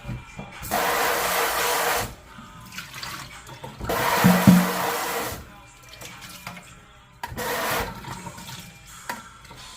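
Water from a newly installed kitchen faucet running in three separate bursts as it is turned on and off, the last one short.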